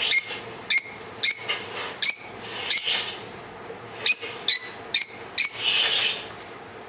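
Lovebird giving about nine short, shrill chirping calls, five in the first three seconds and four more close together around the fourth and fifth seconds.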